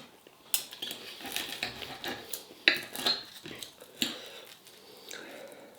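Cutlery clinking and scraping against a plate during eating, with a few sharp clicks that ring briefly.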